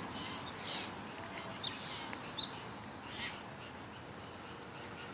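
Faint bird chirps: a few short, high calls scattered through the first three seconds or so.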